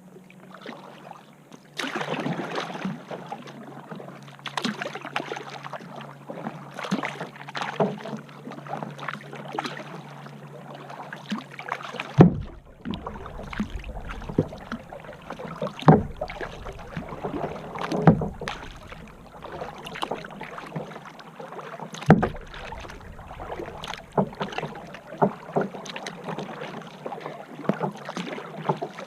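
Kayak paddle strokes dipping and splashing in the water, one after another, with a few louder thumps in the second half.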